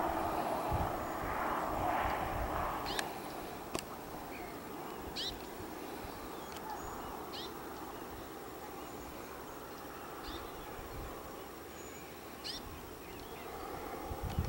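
A bird calling over and over, short high notes that fall in pitch, one every second or two, over a steady low background rumble that fades after the first few seconds. Two sharp clicks come about three and four seconds in.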